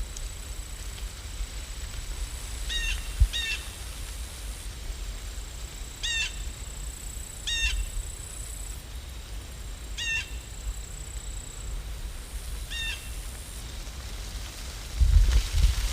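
A bird calls repeatedly, six short calls spaced a few seconds apart, over a steady low rumble of outdoor ambience. A louder low rumble swells near the end.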